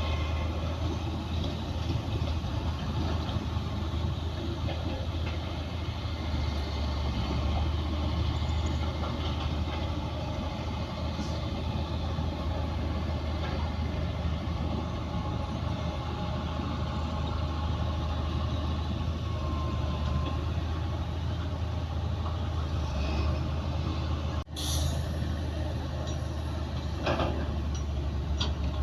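Heavy diesel earthmoving machinery running steadily under load, with a deep continuous engine hum. There is a brief break about 24 seconds in, and a few sharp metallic clanks or squeaks near the end.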